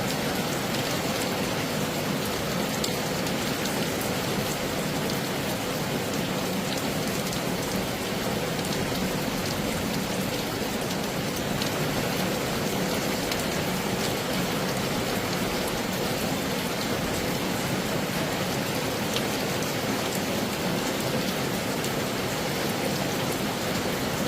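Heavy rain falling steadily, a dense even hiss with faint ticks of single drops.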